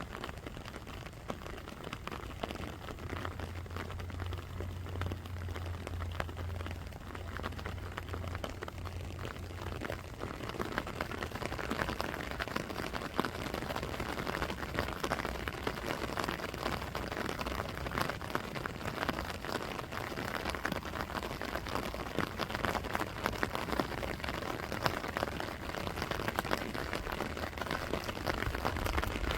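Steady rain with a dense patter of drops, growing louder about ten seconds in. A low steady hum sounds under it for several seconds near the start.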